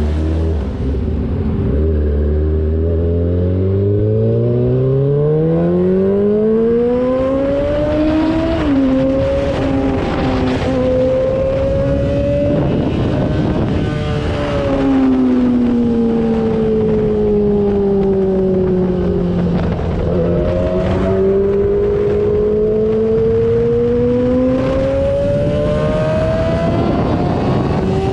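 2003 Yamaha YZF-R6's 600 cc inline-four engine under way: it pulls up steadily through the revs, drops sharply at a gear change about eight or nine seconds in, holds, eases off for several seconds, then accelerates again, with wind rushing over it.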